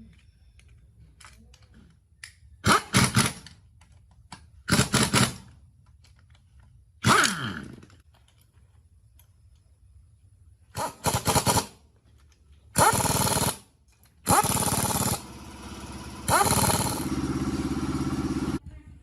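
Car engine under restoration firing in short bursts on repeated start attempts, each dying away, then catching and running steadily for about three seconds before cutting off suddenly near the end.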